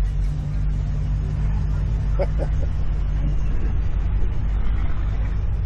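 Car engine idling with a steady low rumble, and a few words from a voice about two seconds in.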